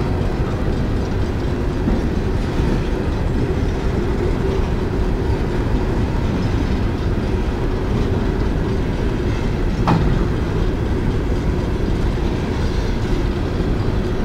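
Coal train's hopper cars rolling past, a steady rumble of wheels on rail, with one sharp click about ten seconds in.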